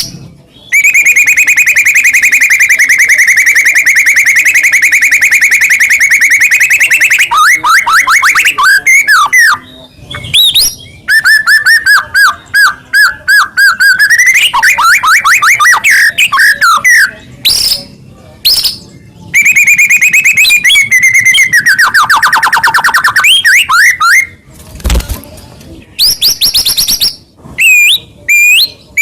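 White-rumped shama singing a loud, varied song: long rapid trills held for several seconds, broken by quick rising and falling whistled phrases and short pauses.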